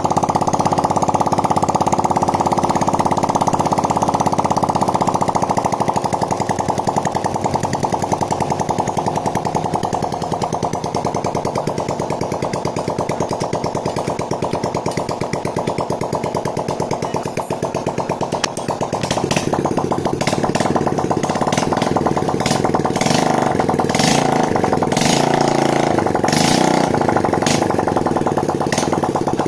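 Freshly rebuilt Honda Supra X single-cylinder four-stroke engine, with a new connecting rod fitted, running steadily. It grows louder about two-thirds of the way through, and a series of sharp clicks sounds over it near the end.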